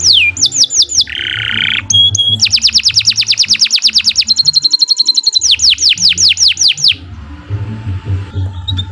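Domestic canary singing a long, loud song: a run of falling whistled notes about five a second, a short buzzy note, then a fast rattling trill with a held high whistle over it, and more falling whistles that fade near the end.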